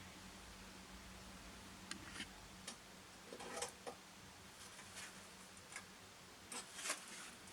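Faint, irregular light clicks and taps, as of small parts or tools being handled, over a faint steady hum.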